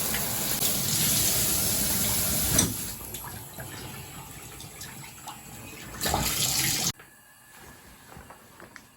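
Water running, loud at first and then softer after about two and a half seconds, with a brief louder gush about six seconds in, before it cuts off suddenly at about seven seconds.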